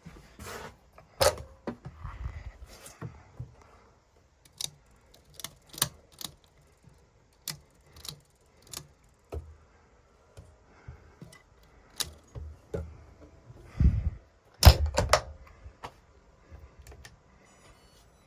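Irregular light clicks and taps a second or so apart, with a few heavier knocks about fourteen to fifteen seconds in.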